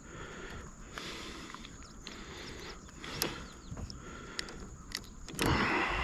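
Handling noise from an angler working a bass and frog lure by hand in a kayak: scattered small clicks and rustles, with a louder rustling burst near the end.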